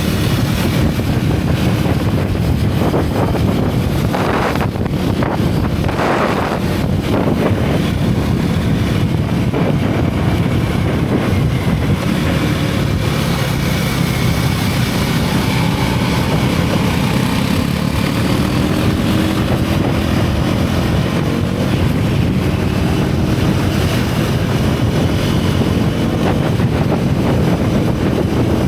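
Single-cylinder motorcycle engine running as the bike is ridden, its note rising and falling with the throttle, with wind rushing over the microphone.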